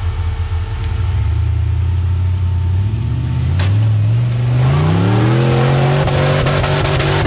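Off-road rock-crawler engine running at low revs, then revving up over a couple of seconds about halfway through and holding the higher revs, with a single sharp knock just before the rise.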